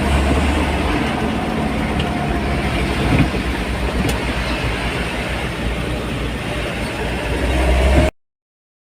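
Truck engine running steadily, growing a little louder near the end, then cutting off suddenly about eight seconds in.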